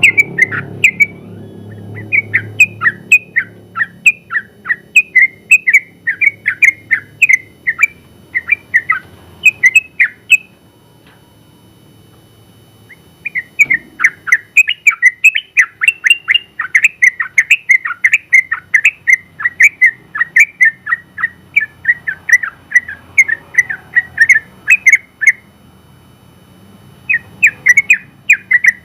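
Yellow-vented bulbul singing in long fast runs of sharp, chattering whistled notes, about three or four a second. The song breaks off for a few seconds about ten seconds in and again near the end, then starts again.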